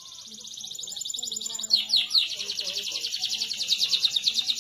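Domestic canary singing a rapid rolling trill that grows louder, breaking into a few quick falling notes about two seconds in, then going into another fast trill.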